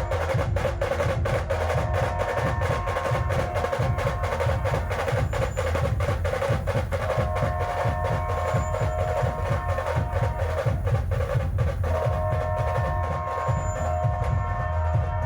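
Band playing dhol-tasha drumming: fast, dense tasha strokes over steady dhol beats, the 'train sound' rhythm. Long held melodic notes sound over the drums in phrases of a few seconds.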